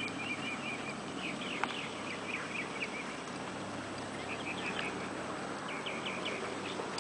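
Birds chirping in short clusters of quick high calls, once a second or so in and again later, over a steady faint outdoor background.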